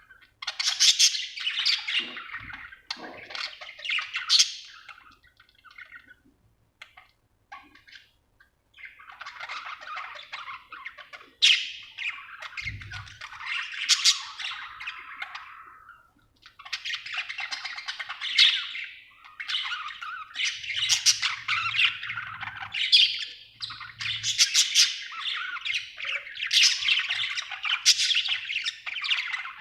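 Budgerigar chirping and chattering in quick bursts; it goes sparse for a few seconds about a fifth of the way in, then keeps up a near-continuous warble.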